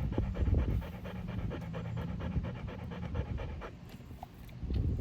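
A dog panting fast and evenly, stopping about three and a half seconds in.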